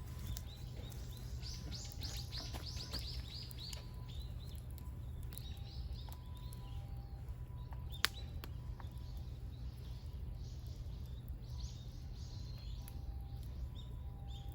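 Wild songbirds chirping and calling, with a quick run of short, high repeated notes about two seconds in and scattered chirps after. A single sharp click comes about halfway through, over a steady low background rumble.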